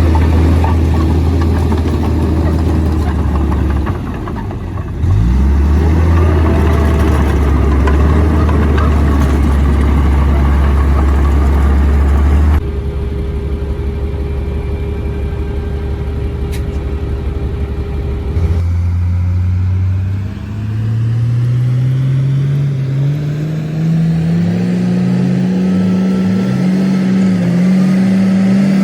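Komatsu D58P bulldozer's diesel engine running, with a brief dip in pitch about four seconds in. Over the last third it revs up, its pitch climbing steadily and then holding high.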